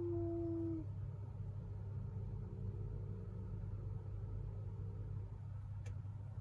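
Domestic tabby cat giving a long, low, slowly falling yowl that stops just under a second in, followed by quieter, rough low growling. It is an aggressive warning call at its own reflection, which it treats as a rival cat.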